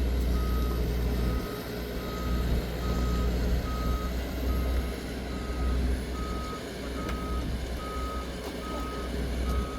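Reversing alarm on heavy earthmoving machinery, about three beeps every two seconds, over the low rumble of a diesel engine running.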